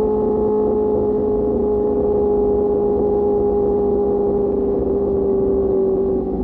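QJ Motor SRK600's inline-four engine running through an SC-Project exhaust at a steady cruise, its note sinking slowly as the revs ease off, over a low rumble.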